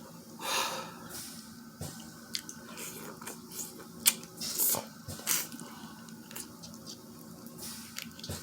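Close-up eating of seafood boil: wet squishing and chewing, with scattered sharp clicks and a few short louder crunchy bursts.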